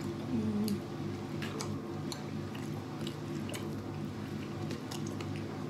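Close-miked chewing and mouth sounds of people eating a seafood boil, with scattered sharp little clicks from handling the food, over a steady low hum.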